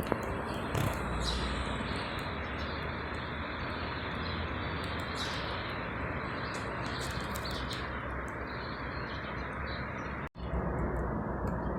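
Small birds chirping and singing in short, scattered calls over a steady hum of city traffic noise. The sound cuts out abruptly for a split second about ten seconds in, then resumes.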